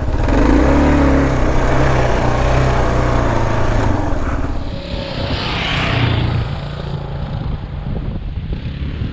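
Kawasaki KLR 650's single-cylinder four-stroke engine running at low trail speed, creeping over rocks; it is loudest in the first few seconds, then eases off. A brief rushing hiss comes about halfway through.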